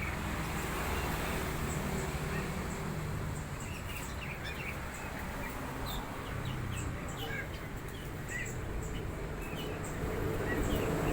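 Scattered short bird chirps, many brief calls at irregular intervals, over a steady low background rumble.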